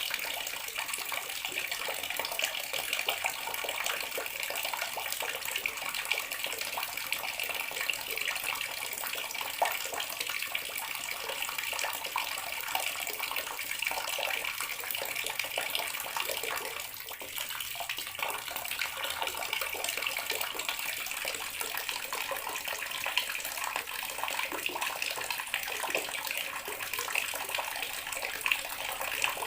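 Bathroom water tap running steadily, a continuous stream splashing into the basin, with a brief slight dip in the flow about two-thirds of the way through.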